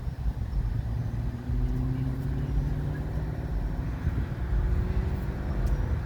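Car driving, heard from inside the cabin: a steady low rumble of engine and road noise with a faint engine hum.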